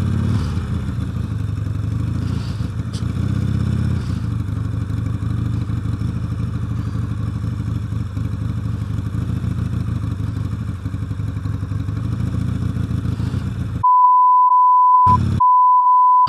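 Motorcycle engine running steadily at low speed in traffic, picked up by a microphone inside the rider's helmet. Near the end two flat, high censor bleeps replace everything else, the first about a second long and the second a little shorter.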